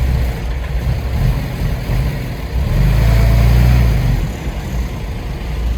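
Heavy diesel engine of earthmoving machinery running, rising louder for about a second and a half in the middle before settling back to a steady run.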